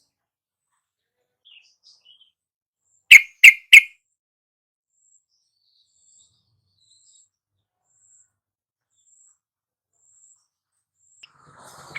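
Yellow-vented bulbul (trucukan) calling: a few faint chirps, then three loud, quick notes a little over three seconds in.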